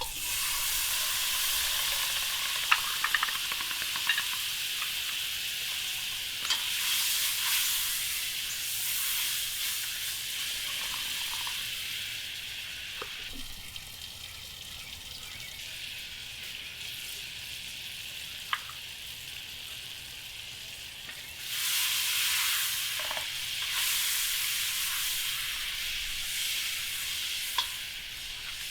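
Food frying in hot oil, sizzling steadily, with the sizzle swelling louder a few times and a few light clicks.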